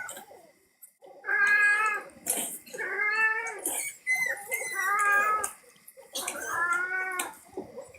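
A pet animal giving four drawn-out whining cries, each under a second long, about one every second and a half.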